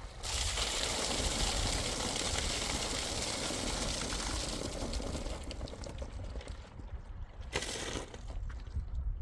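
Water hissing, starting suddenly and thinning out after about five seconds, with a short burst of the same sound near the end, over a low rumble.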